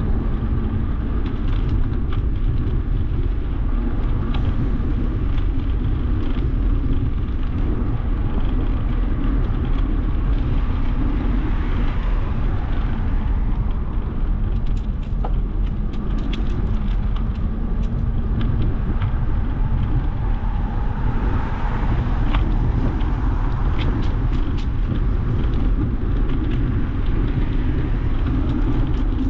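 Steady wind and road rumble from riding a bicycle along a city street, with car traffic around it and scattered light ticks and rattles.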